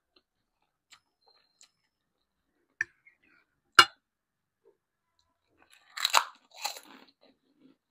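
Close-miked eating: a few sharp clicks, the loudest about four seconds in, then crunchy biting and chewing near the end.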